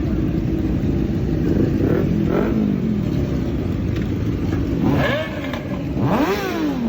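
Vehicle engines running with a steady low rumble while one engine is revved in blips. Its pitch rises sharply and falls back, once faintly about two seconds in and twice strongly in the second half.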